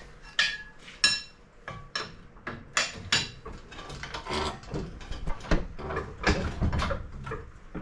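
Irregular metal clinks and knocks, several ringing briefly, as hard metal objects are handled and struck together.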